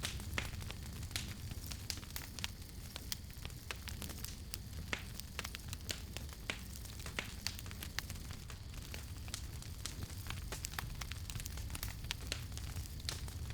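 Campfire crackling: irregular sharp pops and snaps of burning wood, many a second, over a steady low rumble of the flames.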